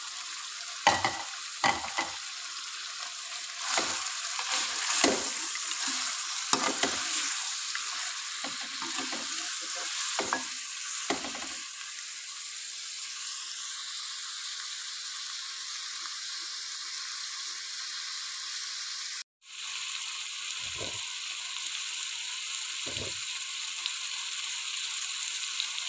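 Beef and chopped tomatoes frying in oil in a metal karahi, sizzling steadily. A metal spoon stirs and scrapes against the pan in quick strokes for the first dozen seconds, then twice more near the end.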